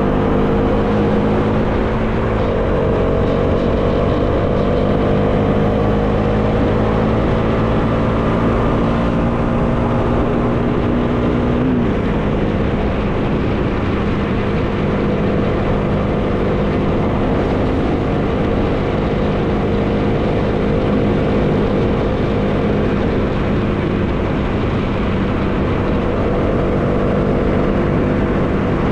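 Bajaj Dominar 400's single-cylinder engine running under way, with steady wind noise over it. The engine note climbs slowly and drops about two seconds in and again about twelve seconds in, then holds steady at cruising speed.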